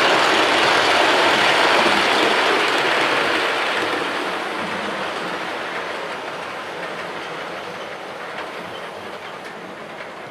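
OO gauge model train running along the track, its wheels rattling over the rails. The sound holds steady for about two seconds, then grows gradually quieter.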